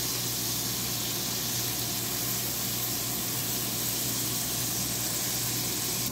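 Skewered quail eggs sizzling on a hot tawa griddle: a steady, even hiss.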